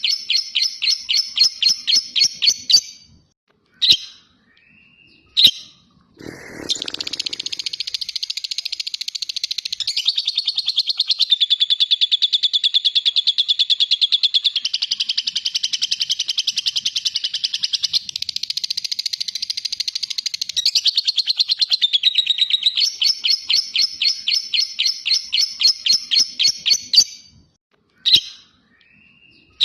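Lovebird ngekek: one long, very fast chattering trill lasting about fifteen seconds. Before and after it come runs of sharp, evenly spaced chirps at about five a second, with a few short single calls in the pauses.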